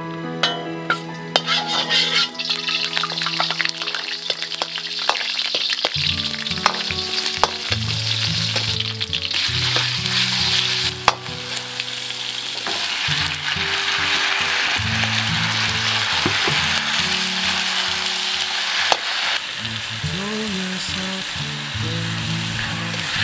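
Food sizzling in a hot pan as it is stir-fried, with many quick scrapes and clicks of the spatula against the pan in the first few seconds. Soft background music plays underneath.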